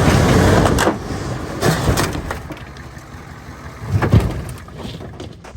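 Stub truck's engine running, cutting out about a second in, followed by several heavy bangs and clunks as the truck runs off the trailer ramp; the loudest bang comes about four seconds in.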